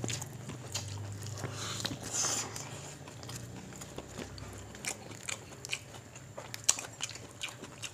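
Close-up chewing and lip-smacking of people eating by hand, with many short sharp mouth clicks and a brief crunchy rustle about two seconds in, typical of biting into fresh mustard greens with rice and fish.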